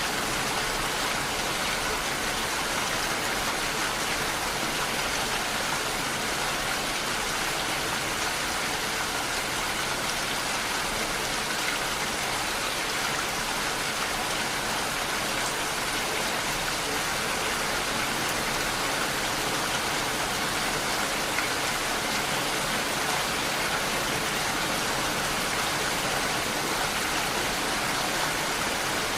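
Steady, even rainfall with no thunder or breaks.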